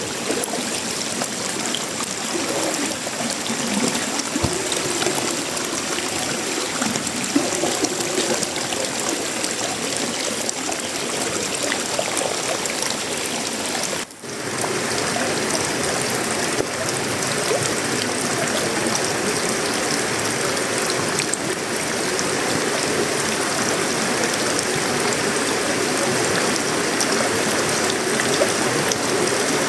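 Steady tropical rain falling on a sheet-metal roof, wood and leaves, heard as a continuous rushing hiss like running water. It drops out for a split second about halfway through, then carries on.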